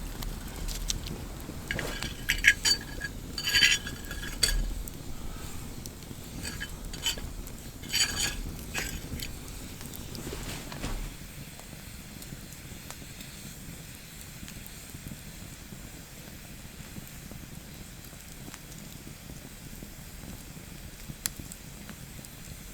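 Metal cookware and utensils clinking and scraping during outdoor cooking, with several sharp ringing knocks in the first nine seconds, then a steady faint hiss.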